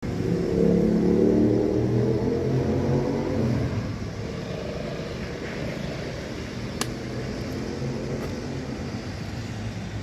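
A vehicle engine running, loudest over the first three or four seconds and then fading to a steadier low drone. A single sharp click about seven seconds in.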